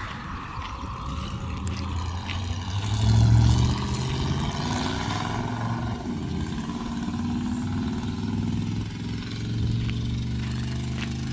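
Engine of an old squarebody Chevy/GMC pickup running through dual straight pipes with no mufflers. It revs up about three seconds in, then settles into steady running with a small swell near the end.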